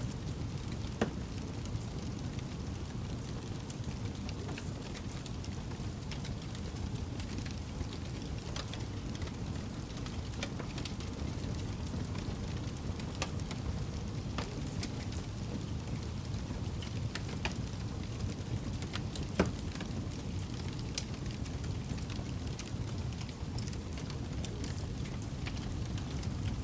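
Campfire burning with a steady low rumble and scattered crackles, with two louder pops, about a second in and near two-thirds of the way through.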